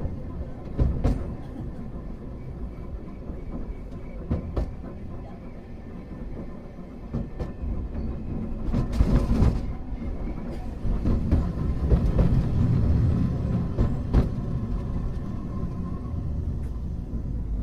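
Hankai Tramway type 351 tram running along the track: a steady low rumble of wheels and traction motors, with sharp clicks, some in pairs, as the wheels cross rail joints. A short hiss comes about nine seconds in, and the rumble swells for a few seconds after it.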